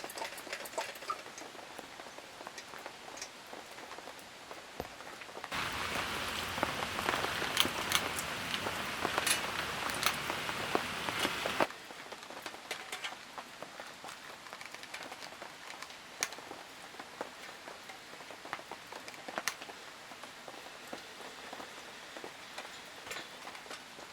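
Rain falling, with many separate drops pattering and ticking. About a third of the way in it turns suddenly louder and denser for roughly six seconds, then drops back just as suddenly.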